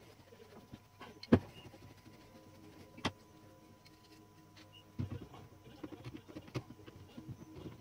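Sharp metallic clicks from small typewriter parts and tools being handled during reassembly, the loudest about a second in and another near three seconds, then a busier run of small rattling knocks from about five seconds on.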